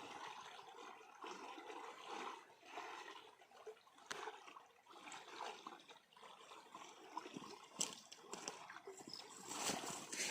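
Water trickling and splashing in an uneven, gurgling wash, with a few sharp clicks near the end.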